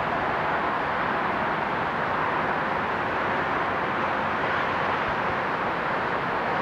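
Jet engines of a Condor Boeing 767-300ER, a twin-engine airliner, running steadily as it comes in to land, with no rise or fall.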